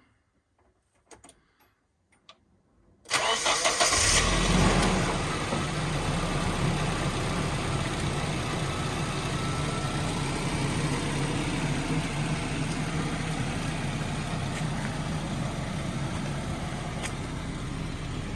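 1992 Nissan 240SX's 2.4-litre four-cylinder engine cold-started: the starter cranks briefly about three seconds in, the engine catches within a second and settles into a steady idle.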